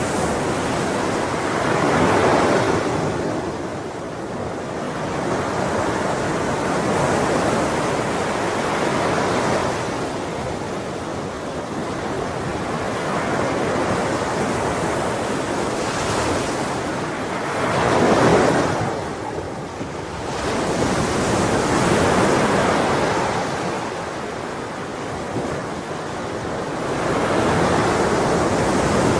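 Ocean waves breaking and washing on a shore, a continuous surf rush that swells and eases every few seconds, with the strongest break about two-thirds of the way in.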